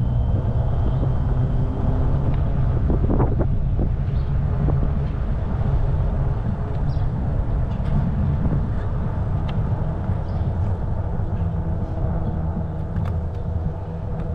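Steady low rumble of an e-bike ride: the 26-inch fat tyres rolling on pavement and air rushing past the microphone, with a faint steady hum above it.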